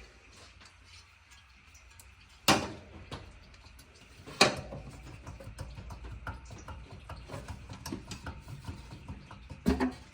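Hand tools working on metal engine parts: two sharp knocks, about two and a half and four and a half seconds in, then a run of quick light clicks and clinks.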